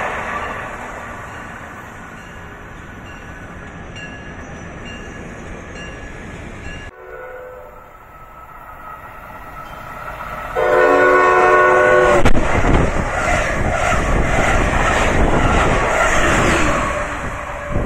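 A fading rush from a train that has already gone by. Then a MARC commuter train sounds its horn, a chord of several notes held for about a second and a half, and passes at speed, a loud rush with its wheels rattling on the rails.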